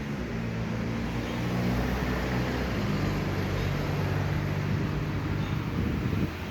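A motor vehicle's engine running with a low, steady hum that grows louder over the first two seconds and then holds.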